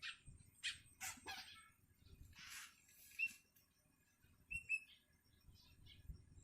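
Young long-tailed shrike calling: several harsh, raspy begging calls in the first three seconds, then a few short, sharp chirps. A hungry fledgling begging for food.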